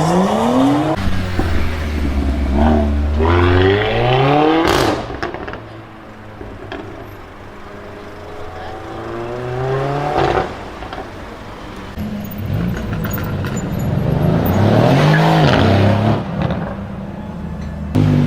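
Car engine with a loud exhaust revving hard, its pitch climbing steeply in the first few seconds. It revs again about ten seconds in, and near the end comes a rise and fall in pitch.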